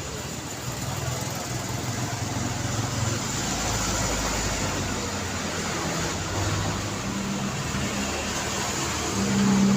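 Road traffic: a steady wash of passing vehicles with engine hum, one vehicle's engine growing louder near the end as it approaches.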